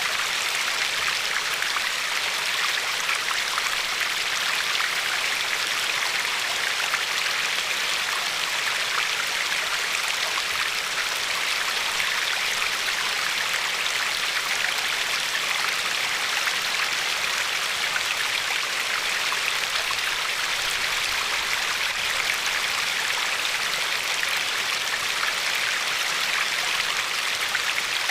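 Shallow river flowing and lapping over a pebble shore: a steady rush of water with fine splashing and gurgling, unchanging throughout.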